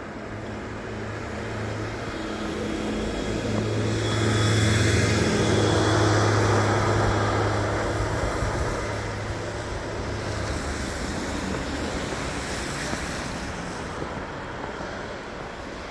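A motor vehicle passing: a low engine hum with road noise, swelling to its loudest about five seconds in and then fading away.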